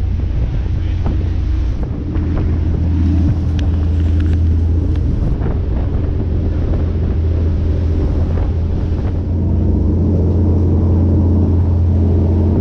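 Boat engine running with a steady low drone, with wind buffeting the microphone; the engine gets a little louder about nine seconds in.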